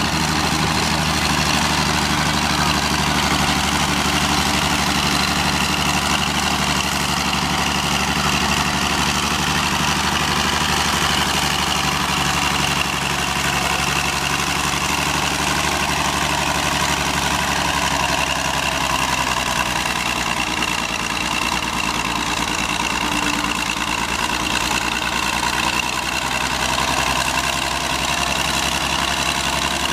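Oliver 88 tractor engine running steadily, its note shifting slightly about two-thirds of the way through.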